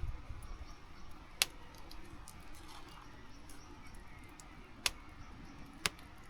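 Wood campfire giving three sharp, separate pops over a low steady rush of a nearby brook.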